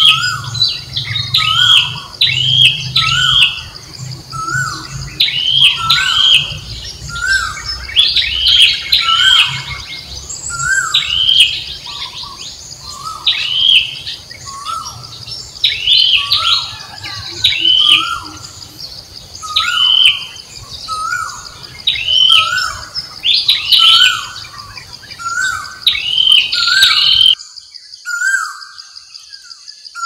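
Birdsong: short chirped calls repeating about once a second, at a higher and a lower pitch, over a steady high background hum that cuts off abruptly near the end.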